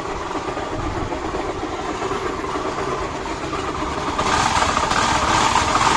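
Honda Activa scooter's single-cylinder four-stroke engine running with a heavy mechanical noise, getting louder from about four seconds in. The noise comes from a broken crankshaft bearing.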